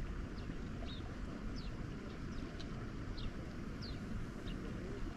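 Birds chirping in short, high, downward-sliding notes, one every half second to a second, over a steady low rumble of wind.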